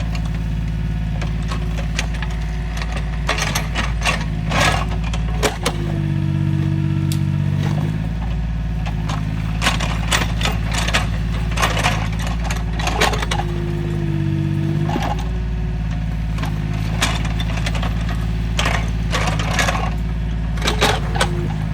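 Small excavator's diesel engine running steadily. Its note strains and bends about every eight seconds as it works through digging cycles. Clusters of knocks and scrapes come in between.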